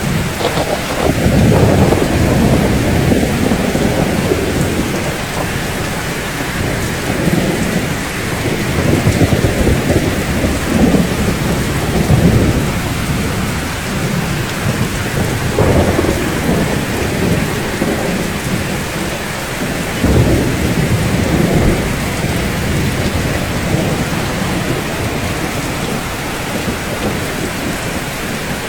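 Steady rain falling on a roof, with low rolling thunder that swells and fades several times.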